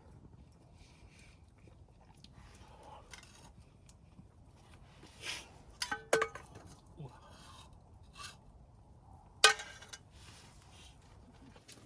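Metal camp cookware and utensils being handled: a few scattered clinks and knocks, one short ringing metallic clink about halfway through and a sharp knock, the loudest, about three quarters of the way in.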